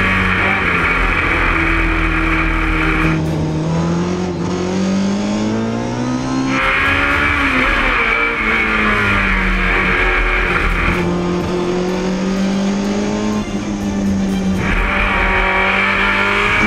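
Triola race car's engine running hard under load while it climbs a hill, its pitch rising and falling with throttle and gear changes. A hiss comes and goes in stretches of a few seconds.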